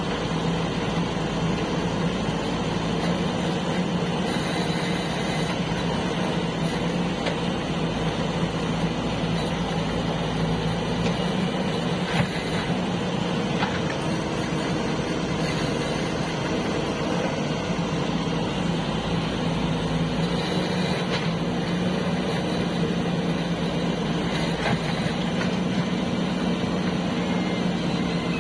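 Heavy diesel engine running steadily at an even speed, a continuous low drone with no revving.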